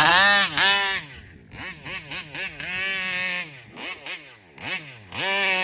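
Taylor 35 cc reed-valve two-stroke engine in a gas RC car being revved hard, with a run of quick throttle blips that rise and fall in the middle, then held at high revs again near the end.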